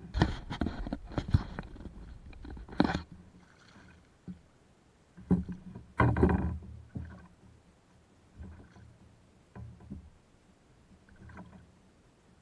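Knocks and handling noise in a kayak: irregular sharp knocks against the hull, clustered in the first three seconds and again around five to seven seconds in, with a few fainter ones after.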